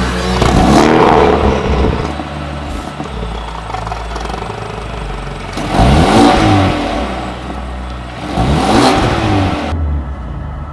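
Mercedes-AMG A35's turbocharged 2.0-litre four-cylinder free-revved three times, each blip rising and falling in pitch, with idle between. It runs through a Fi Exhaust valvetronic cat-back with a catless downpipe, its exhaust valves closed.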